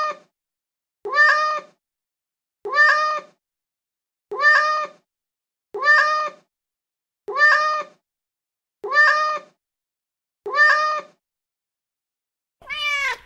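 A recorded domestic cat meow played back over and over. The same short meow comes about every one and a half seconds, eight times in a row. Near the end a different meow recording starts.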